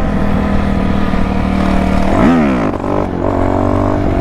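Dirt bike engines running steadily. A little over two seconds in, one bike revs sharply up and drops back, then settles at a higher steady note.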